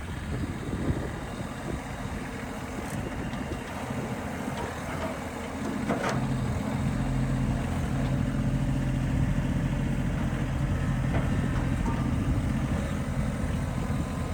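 Tractor engine running steadily, a low rumble that settles into a steadier, even pitch about six seconds in.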